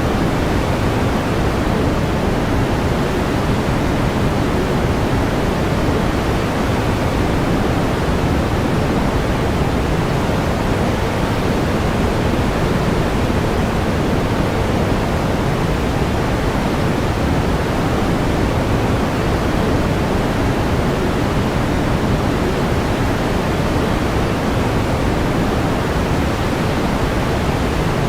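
Steady pink noise: an even, unchanging hiss weighted toward the low end, like a distant waterfall.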